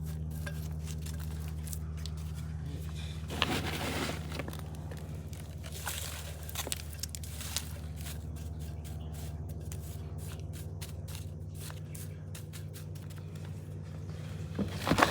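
Loose orchid potting mix with perlite and charcoal being handled and poured into a pot: two short bouts of scraping and crackling with scattered clicks, over a steady low hum.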